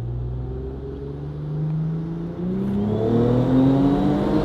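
Twin-turbo car engine under hard acceleration, its pitch climbing through the revs. A quick gear change a bit over two seconds in drops the pitch, and it climbs again.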